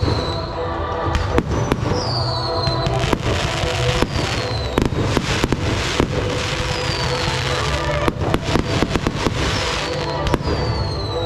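Fireworks display: repeated bangs and crackling, with a dense run of crackles near the end, and several high whistles falling in pitch.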